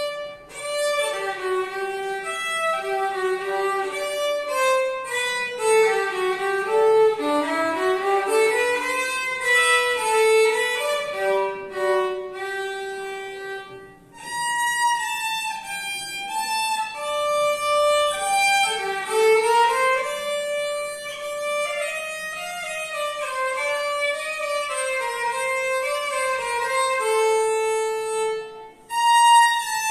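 A tune played on a single melody instrument, one line of notes that step and slide in pitch, with short breaks about fourteen seconds in and near the end.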